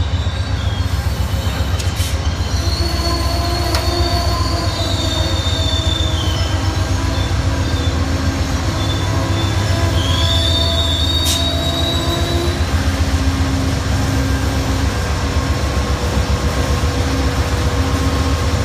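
Passenger train cars rolling slowly past with their wheels squealing on the rails in two long, high-pitched stretches and a few sharp clicks. Under them runs the steady low throb of the GE P42DC diesel locomotive pushing the train.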